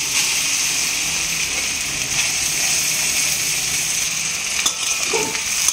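Masala-marinated dried anchovies (nethili karuvadu) sizzling in hot oil in a kadai, a steady frying hiss. A metal spatula stirs them in the second half, with a few light knocks against the pan near the end.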